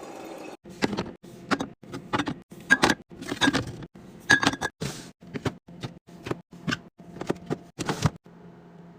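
Food containers knocking and clinking as they are handled and set into a fridge, about two sharp knocks a second, over a steady low hum.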